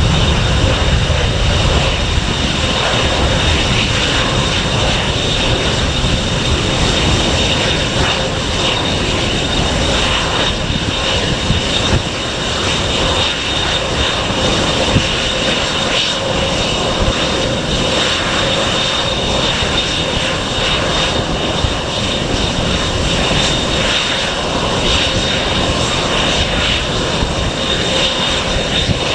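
Airliner engines running at close range: a steady high whine over a broad, even rush of engine noise that holds for the whole stretch.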